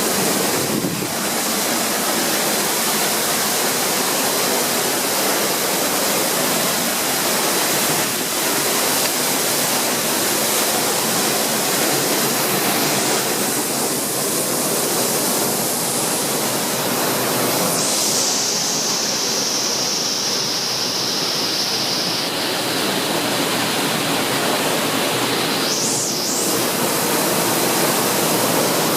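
Waterfall rushing, a steady, loud wash of falling water close by.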